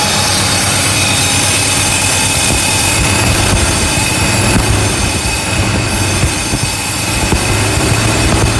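Mercedes-Benz 450SEL 6.9's 6.9-litre V8, still cold, running loud and being revved through an exhaust with the muffler cut off.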